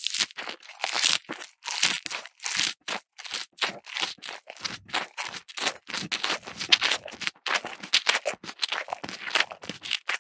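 Crisp crunching and tearing, as of fresh grass being bitten and chewed, in quick irregular bites about two to three a second. It is a grazing sound matched to the toy cows 'eating' the grass.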